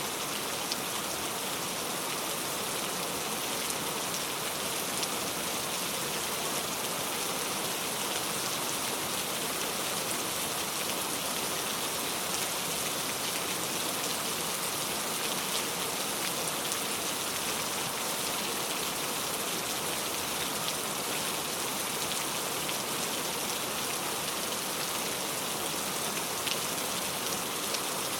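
Steady rain falling, an even hiss of drops with small scattered drop impacts.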